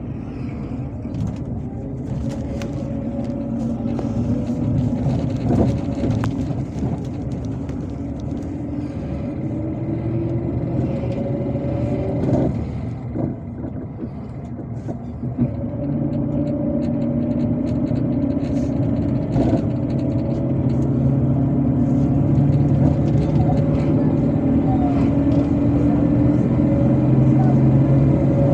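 MAZ-257 bus's diesel engine and drivetrain heard from inside the cabin while under way. The engine note climbs as the bus accelerates, drops away about twelve seconds in, then climbs steadily again.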